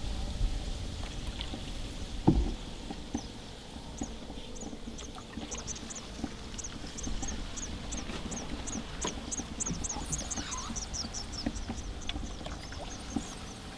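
Water pouring and trickling from paddle strokes beside a canoe, with one sharp knock about two seconds in. A small songbird sings a long run of quick, high chirps from about five to eleven seconds in.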